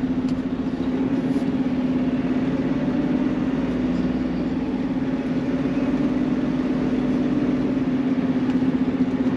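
Semi-truck diesel engine running steadily at low speed, heard from inside the cab as a constant low drone.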